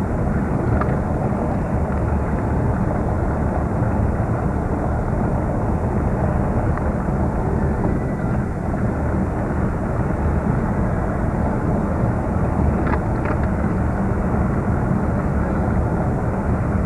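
Steady low road and engine noise inside the cab of a moving pickup truck.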